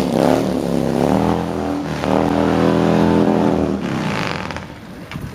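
Motorcycle engine revving, its pitch rising and falling as it pulls away, then fading near the end.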